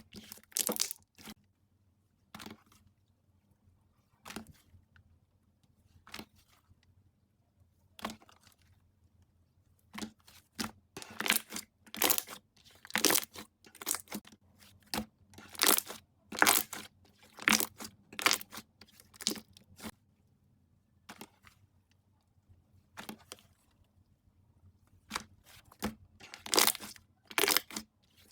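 Slime being pressed and stretched by hand, giving short crackling pops and clicks. These come singly at first, in quick clusters through the middle, stop for a few seconds, and start again near the end.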